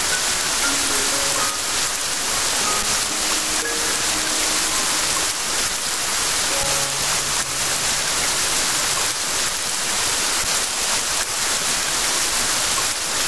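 Steady rain sound, an even hiss, with soft, sparse held musical notes at changing pitches over it.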